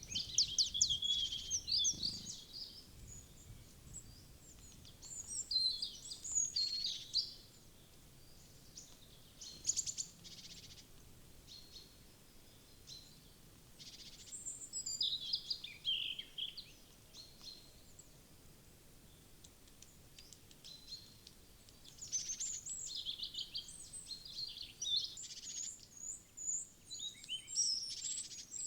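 Small woodland birds chirping and calling in high-pitched bursts, with quieter gaps between them, over a faint background hum.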